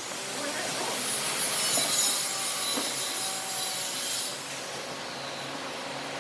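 A power tool working wood: a steady motor hum, with a harsh high hiss swelling from about a second in until about four seconds in as the tool bites into the wood.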